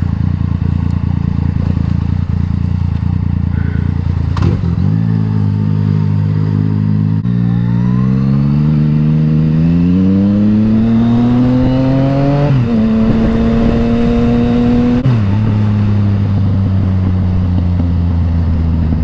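Yamaha MT-09's three-cylinder engine through an Akrapovič exhaust, accelerating hard: the pitch steps up about five seconds in and climbs for several seconds, then drops sharply at an upshift near the middle, and again at another shift a few seconds later before holding steady.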